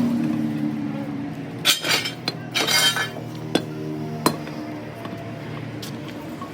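Sharp metallic clinks, a few strikes of metal on metal, and two short scraping noises about two and three seconds in, over background music.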